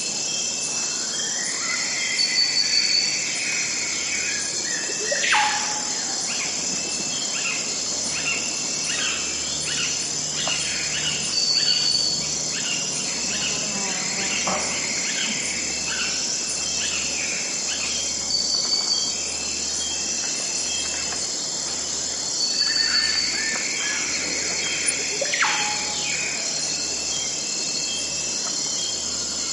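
Forest ambience: a steady high-pitched insect drone with songbirds calling over it. Chirps and warbling phrases come and go, with sharp falling whistles about five seconds in and again near the end.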